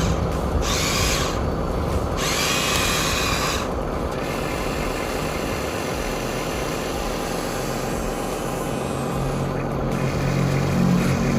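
Electric motor and plastic gearbox of a Huina remote-control construction model running with a whirring, drill-like sound. There are two bursts of hiss in the first few seconds, and a low hum grows louder from about two-thirds of the way through.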